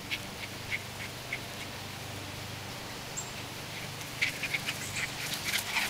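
Dogs moving about close by: a few scattered short clicks and scratches, then a denser run of scratchy clicks and rustling building from about four seconds in, over a steady low hum.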